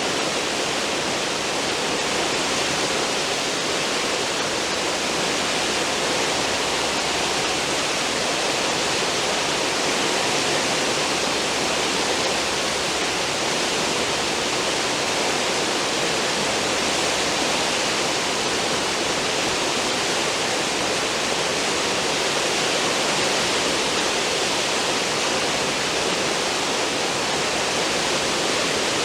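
Cruise ship's stern wake: churned, foaming water rushing in a steady, unbroken hiss.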